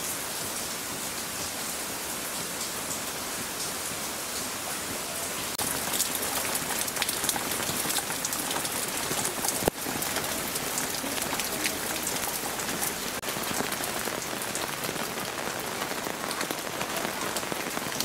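Heavy rain pouring steadily, a dense hiss of drops splattering on surfaces, growing a little louder about six seconds in.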